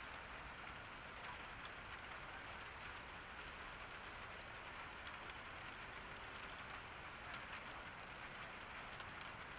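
Steady, gentle rain falling in a garden, an even hiss with faint scattered drop ticks.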